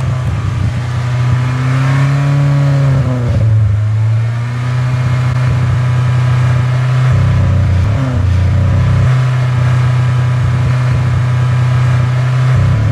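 Nissan 240SX's KA24E 2.4-litre inline-four engine running at raised revs with Seafoam treatment in its intake, the pitch rising and dipping a couple of times as the throttle is varied.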